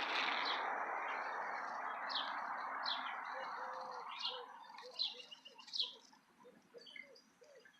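Short, high bird-like chirps repeating about once a second, each falling in pitch, with softer low notes between them. A rushing noise under them fades out about four seconds in.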